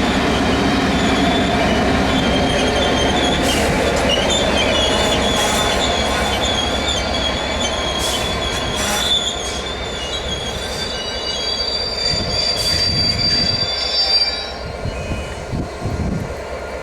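Train running through the station, a steady rumble of wheels on rail with a high, wavering wheel squeal over it and a few sharp clicks from the wheels. The squeal stops and the rumble fades about three-quarters of the way through.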